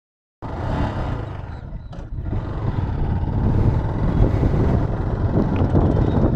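Motorcycle riding noise: wind buffeting the microphone over the rumble of the engine and road, building up after a brief silent cut at the start.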